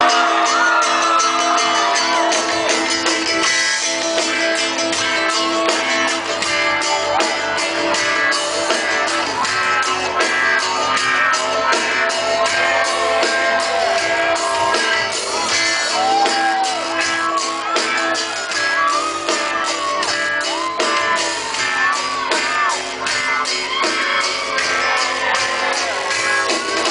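Live band playing a song's instrumental intro, with a steady drum beat and guitar, while the crowd shouts over it.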